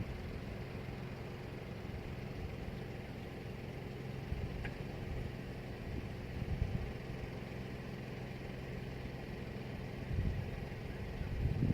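Wind rumbling on the microphone, with a few gusts swelling the low rumble, and one short, high bird chirp about five seconds in.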